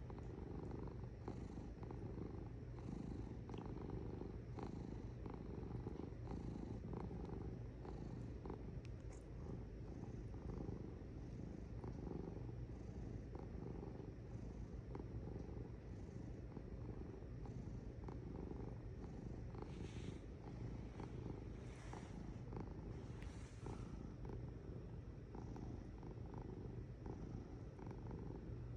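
Domestic cat purring steadily and without a break, close up. A few brief, soft higher noises come about two-thirds of the way through.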